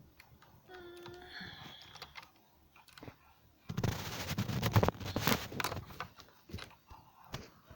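About two seconds of rapid, loud clattering and rattling from hands working the plastic parts of a mini sewing machine and its thread spool, starting a little past the middle, with a few lone clicks afterwards.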